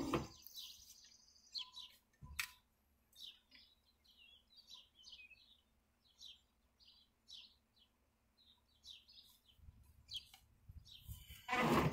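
Birds chirping, many short high calls scattered throughout, with a brief loud noise right at the start and a louder rush of noise with a low rumble near the end.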